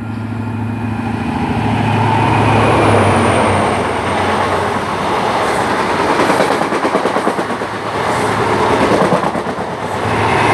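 High Speed Train (InterCity 125) with Class 43 diesel power cars passing through the station without stopping: a loud rush of wheels on rail that builds over the first couple of seconds, with rapid wheel clatter and a steady low engine hum beneath.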